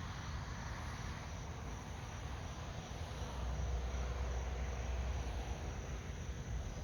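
Steady outdoor ambience of insects droning, with a low rumble that swells between about three and five seconds in.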